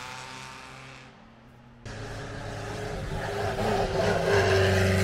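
Vintage racing car engines at full throttle on a hill climb. One car's engine note fades as it moves away, then, after a sudden cut about two seconds in, another car's engine grows louder as it climbs past close by, loudest near the end.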